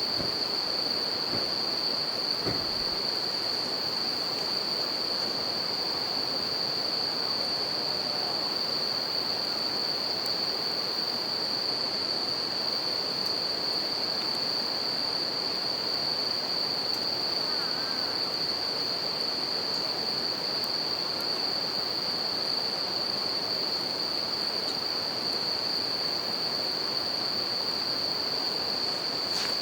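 Bell crickets (suzumushi) singing in a continuous high ringing over the steady rush of a river, with a couple of crackles from a wood campfire in the first few seconds.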